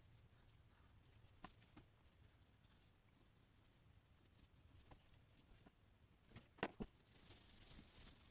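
Near silence with faint drawing strokes on paper and a few light clicks, two of them close together near the end, followed by a brief soft scratching.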